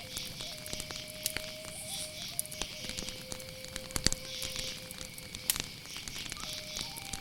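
Wood fire crackling with irregular sharp pops, the loudest about four and five and a half seconds in, over a steady chirring of crickets. Soft background music holds long notes that step in pitch.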